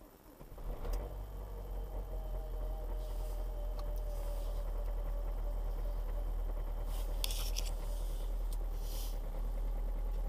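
Renault 1.5 dCi four-cylinder common-rail turbodiesel starting from cold in −25 °C frost: it catches about a second in and settles into a steady idle.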